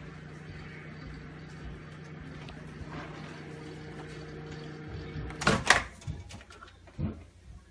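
Microwave oven running with a steady hum, which stops about five and a half seconds in, followed by a couple of loud clacks and a softer knock.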